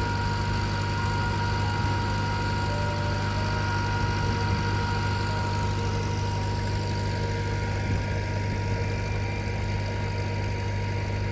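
Vintage tractor engine running at a steady, even speed with a constant low hum and a thin steady whine above it.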